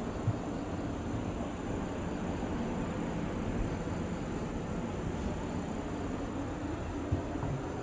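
Steady low rumbling noise of wind and sea surf, with a couple of brief thumps.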